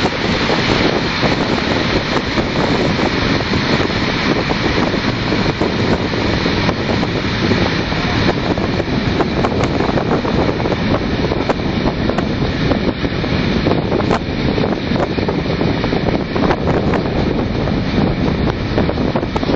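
Steam train on the move, heard from aboard: steady wind buffeting the microphone over the running noise of the train, with scattered short clicks.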